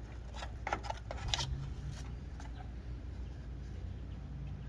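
A few light clicks and taps in the first second and a half as an old vehicle light fitting is popped off by hand, over a low steady hum.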